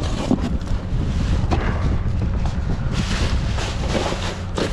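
Wind buffeting the microphone: a heavy, uneven low rumble, with a few light clicks and a stretch of rustling noise near the end.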